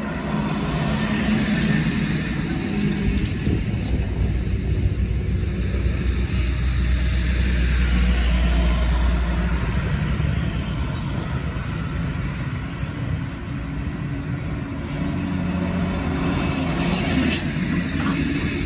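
Heavy truck's diesel engine running steadily with a deep rumble, strongest about halfway through. A brief sharp hiss or click comes near the end.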